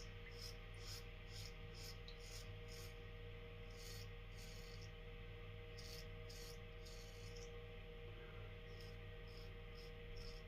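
Faint rasping strokes of a Merkur Futur safety razor with a Gillette Nacet blade scraping through lather and stubble, in short runs of quick strokes with brief pauses.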